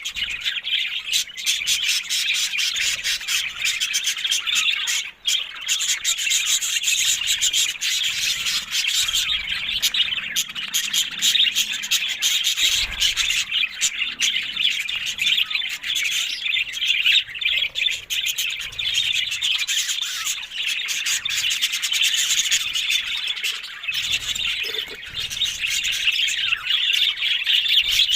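A flock of budgerigars chattering continuously, a dense mix of warbling chirps, clicks and occasional squawks.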